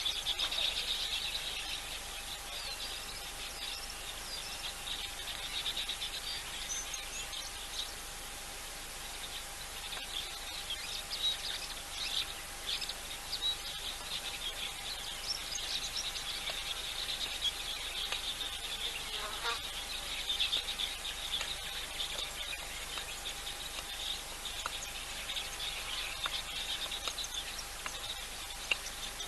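Insects chirring in a dense, steady high-pitched chorus, with scattered bird calls over it and a faint steady hum beneath.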